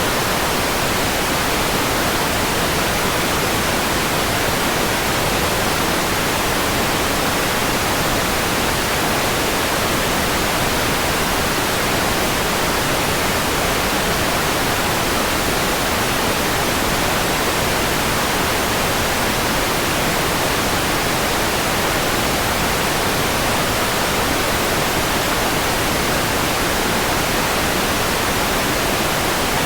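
Steady, unchanging white noise: an even hiss spread across all pitches, with no variation or events.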